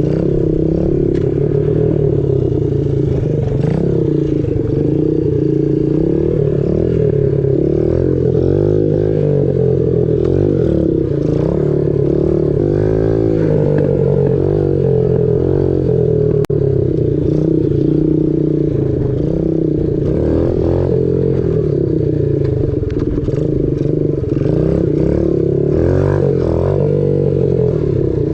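Small gas pit bike engine running under way, its pitch rising and falling as the throttle opens and closes, with clatter and rushing noise from the ride.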